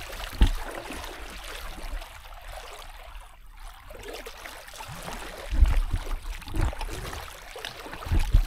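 Water trickling and splashing around a small boat being paddled down a river, with a few short, low thumps.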